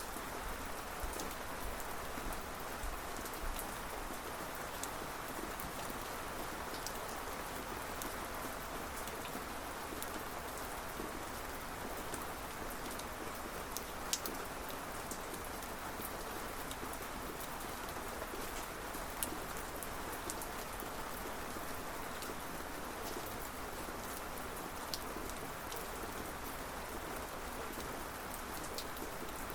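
Steady rainfall, an even hiss with scattered individual drops ticking.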